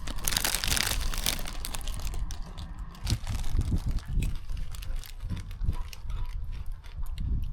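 A crisp packet crinkling sharply for the first second or so, then quieter rustles and crunching as cheese and onion crisps are eaten.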